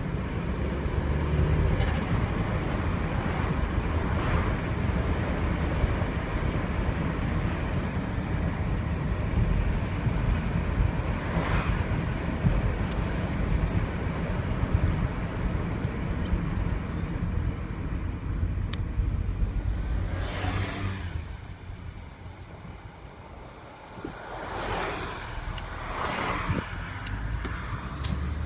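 Turbocharged 1.8 20-valve four-cylinder engine of a VW Passat running, with several short bursts of turbo flutter. This is the chatter of compressor surge when the throttle snaps shut, made loud by an open Ramair cone air filter.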